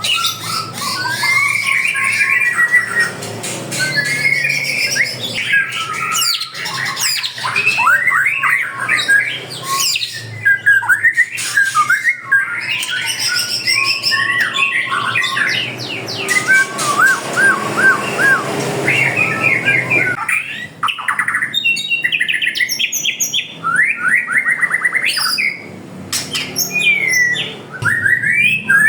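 Many caged songbirds calling at once: a dense, unbroken mix of whistles, rapid trills, chirps and squawks from several birds.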